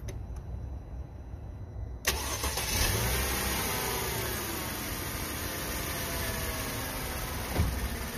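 Mercedes-Benz C230's V6 engine starting about two seconds in, the revs rising briefly and then settling to a steady idle. It runs with a freshly replaced alternator and drive belt and no odd noise.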